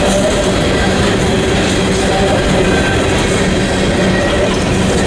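Empty aluminum coal gondolas of a freight train rolling past close by: a steady, loud rumble and rattle of steel wheels on the rails.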